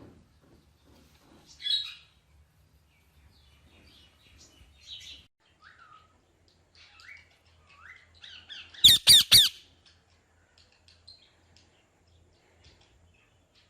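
Parrot calling: scattered chirps and short falling whistles, then a quick burst of three loud, sharp calls about nine seconds in.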